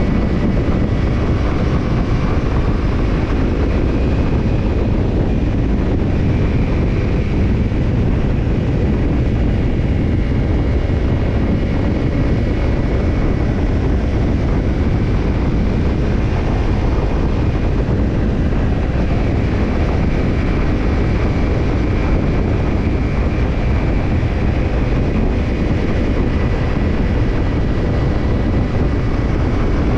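Kawasaki Ninja 250 parallel-twin running steadily through a BEET NASSERT Evolution Type II titanium slip-on muffler, under a heavy rush of wind on the microphone.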